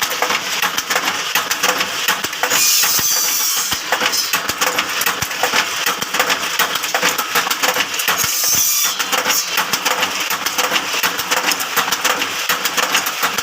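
Bamboo skewer-making machine running with a dense, rapid metallic clatter, as bamboo is fed through to be cut into satay sticks; a brighter hiss comes in a few times.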